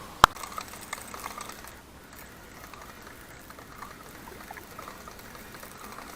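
Faint trickling and lapping of pond water, with a sharp click just after the start and a few small ticks.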